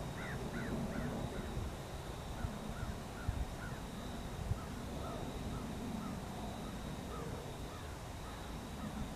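A bird calling over and over in short, arched calls, about two or three a second, loudest at first and growing fainter.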